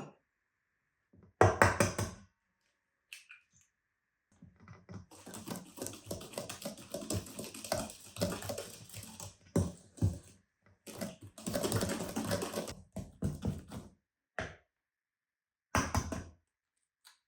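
Hand-handling noises: a loud knock about a second and a half in, then long stretches of scraping or rustling with small clicks, and a few short taps near the end.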